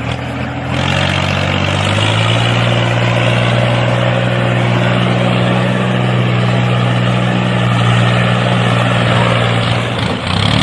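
Engine running steadily; its pitch rises a little during the first two seconds, then holds.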